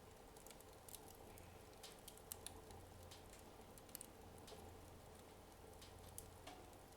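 Faint, sparse crackling of a wood fire in a fireplace burning down to its last flames: scattered small clicks and pops about once or twice a second.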